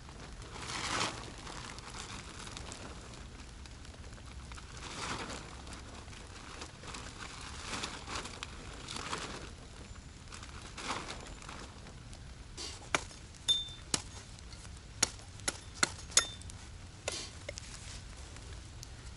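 Crinkling and rustling of a rain tarp being handled, then, from about two-thirds in, a run of sharp, irregular knocks of wood being chopped.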